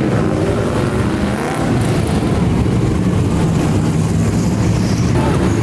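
A car engine running at a steady, low speed, with a deep, even tone.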